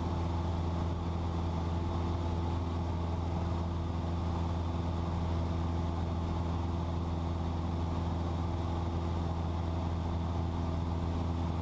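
Cessna 172's piston engine and propeller droning steadily in cruise, heard inside the cabin: a constant low hum with a few steady tones above it.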